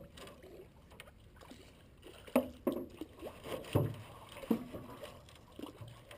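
Paddling a small boat: a handful of short, sharp splashes and knocks as the paddles work the water, the loudest a little under 4 seconds in.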